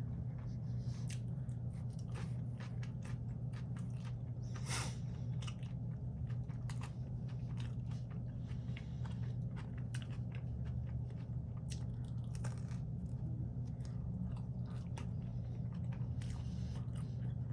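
A person chewing and biting food close to the microphone, with small scattered crunches, over a steady low hum.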